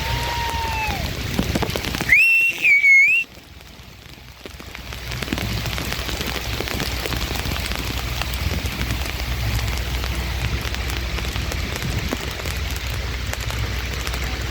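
Steady rain falling, heard as an even hiss with a low rumble underneath. About two seconds in, a loud, high whistle with a wavering pitch lasts about a second, and a briefer falling whistle sounds right at the start.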